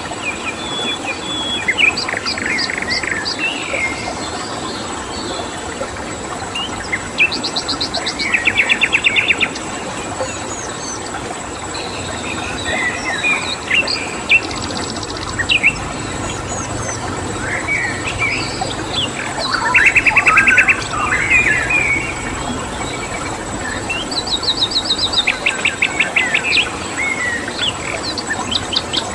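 Wild songbirds chirping and singing, with several rapid trills of evenly repeated notes, about four times, over a steady rush of flowing stream water.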